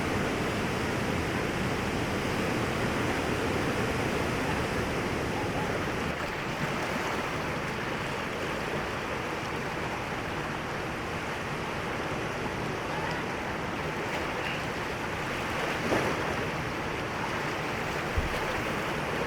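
Whitewater rapids rushing steadily, with a short knock about 16 seconds in and another near the end.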